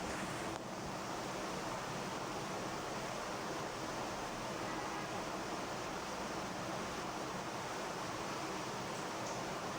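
Steady rushing background noise with no distinct calls or knocks.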